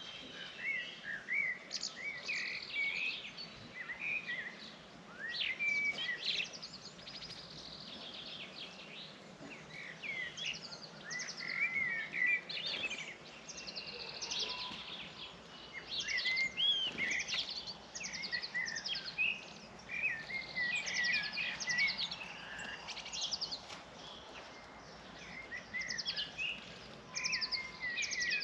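A flock of small birds chirping and twittering at once, many short overlapping calls and quick trills with no break.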